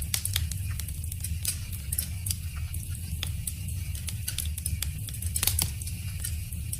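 Wood fire crackling: irregular sharp pops and snaps, a few of them louder about five and a half seconds in, over a steady low rumble.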